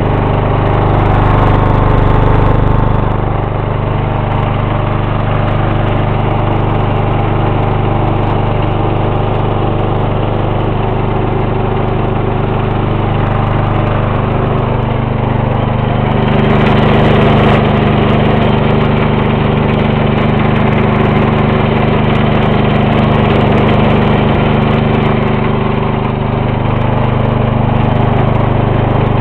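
A 1994 Lawn-Boy riding mower's 12.5 hp Briggs & Stratton engine running steadily just after a cold start. It gets louder for a couple of seconds near the start and again around the middle.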